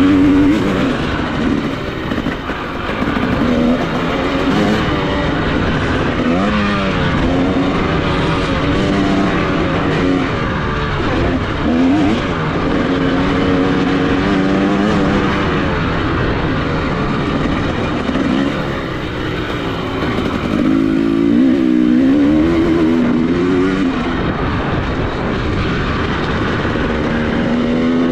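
Dirt bike engine revving up and down, its pitch rising and falling again and again with the throttle and gear changes while riding.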